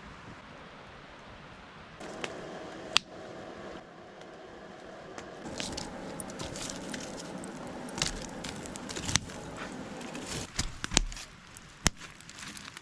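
Wood campfire crackling with several sharp pops, over a steady sizzle from a foil-wrapped dinner packet cooking on the fire. The sizzle starts about two seconds in and grows louder a few seconds later.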